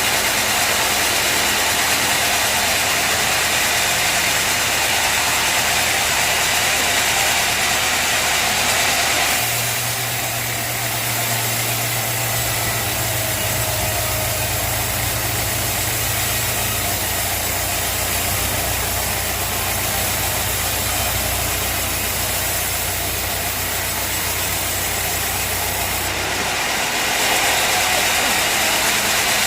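Sawmill machinery engine running steadily, with an even mechanical hum and hiss. Its low tone shifts abruptly about a third of the way in and again near the end.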